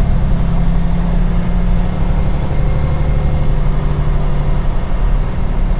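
Semi truck's diesel engine running with a steady low drone, heard from inside the cab as the truck moves in slow traffic.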